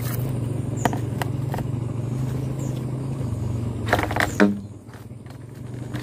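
A vehicle engine running steadily with a low hum, with a few light clicks; a short louder sound comes about four seconds in, after which it all drops quieter.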